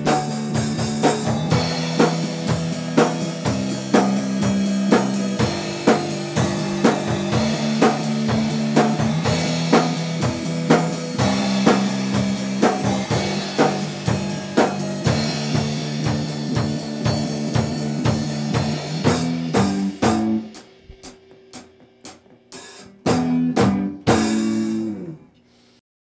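Rock band playing the instrumental end of a song, with guitar, bass and drum kit keeping a steady beat. About twenty seconds in the groove stops, leaving a few scattered hits. A last chord sounds near the end and dies away into silence.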